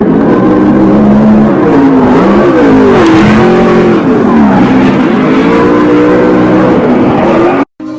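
A car engine revving hard, its pitch climbing and falling again and again. It comes in abruptly, is very loud, and cuts off suddenly near the end.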